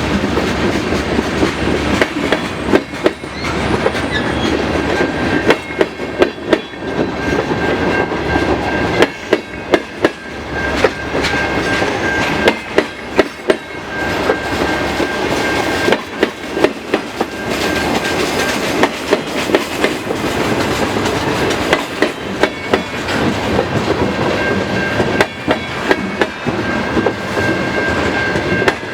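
Slow-moving freight train rolling past with its wheels clacking irregularly over the rail joints. A thin, high wheel squeal comes and goes over a steady rumble.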